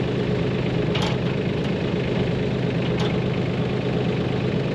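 Engine idling steadily, with two short clicks about one and three seconds in.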